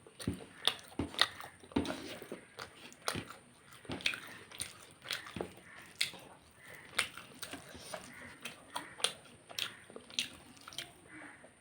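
A person chewing and biting food, heard up close: an irregular run of sharp, wet clicks and crunches, several a second.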